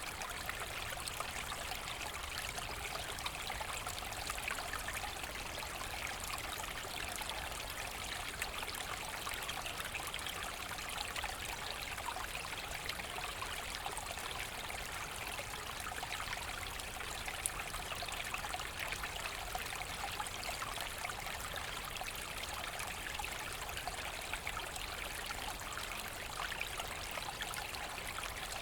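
Forest stream running steadily over stones, a continuous babble and trickle of water.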